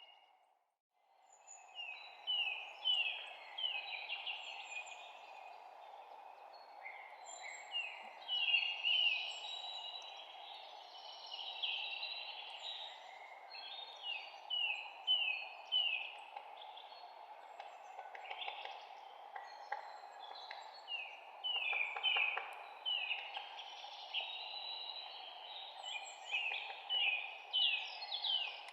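Songbirds chirping and singing in a morning chorus, with many short down-slurred phrases repeated over and over, over a steady low background hiss. Near the start the sound drops out briefly and fades back in.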